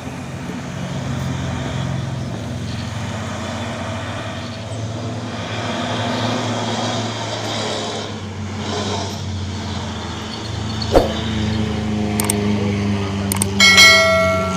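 Heavy truck engine droning steadily at low revs as it labours up a steep climb, with a sharp knock about eleven seconds in. Near the end comes a short honk from a vehicle horn, the loudest sound.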